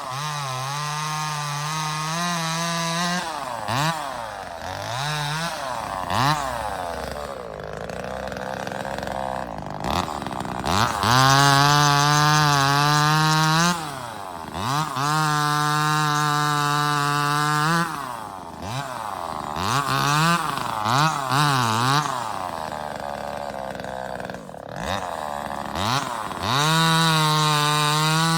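Neotec NCS2500 25cc two-stroke top-handle chainsaw revved to full throttle in four runs of about two to four seconds each, sliding back down toward idle between them, with several short throttle blips in the gaps.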